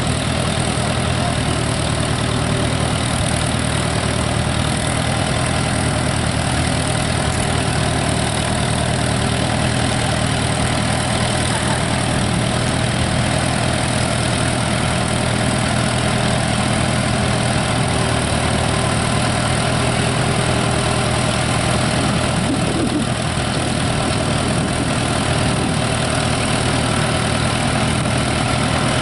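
Farm tractor engine idling steadily, with no revving or change in pace.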